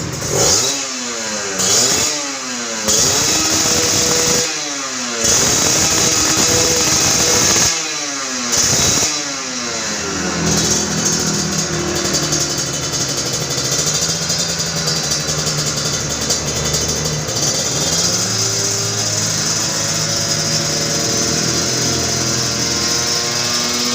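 Kawasaki Ninja RR two-stroke engine through an Aitech full stainless exhaust, revved in repeated throttle blips, some held high for a second or two, each falling away in pitch as the throttle closes. After about ten seconds it settles into a steadier, lower run with small swells in revs.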